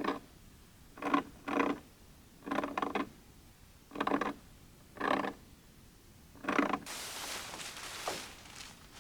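Slow footsteps squeaking and crunching in cold snow, about eight steps, followed near the end by a longer rustling hiss.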